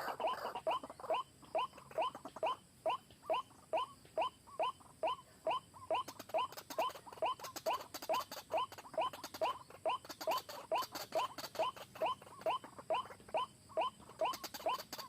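White-breasted waterhen calling its rapid, repeated 'kruak-kruak' note series, about three short rising notes a second without a break.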